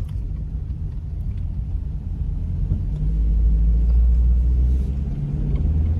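Car driving, heard from inside the cabin: a steady low rumble of engine and road noise that grows louder about halfway through, then eases off near the end.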